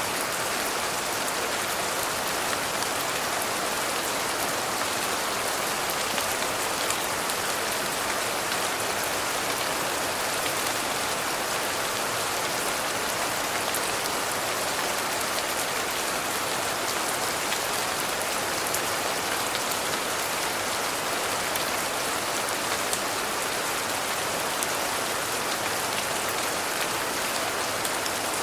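Steady, even rain with scattered faint drop ticks.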